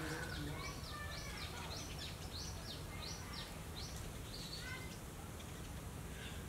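A bird singing a rapid run of high, falling notes, about three a second, which stops about four seconds in, over a steady low outdoor hum.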